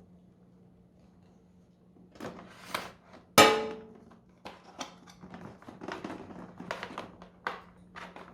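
Handling noises from unpacking a vacuum cleaner: knocks, clicks and rustles of plastic parts and packaging, over a faint steady hum. The loudest is one sharp ringing knock a little over three seconds in.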